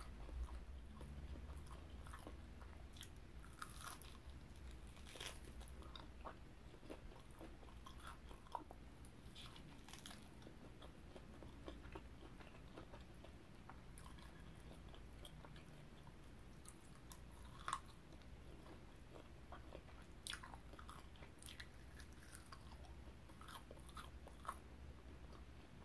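Quiet close-up chewing and biting of barbecue-sauced pork ribs, with scattered short, sharp mouth clicks over a faint low hum.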